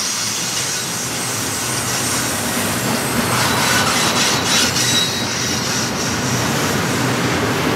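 Double-stack intermodal container train rolling past at close range: the steady rumble and clatter of well-car wheels on the rails, with a faint high-pitched wheel squeal about three to five seconds in.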